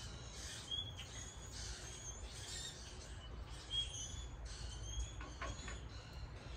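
Wild birds chirping in the background: short high calls repeating every second or so over a low outdoor hum, with a few faint clicks about five seconds in.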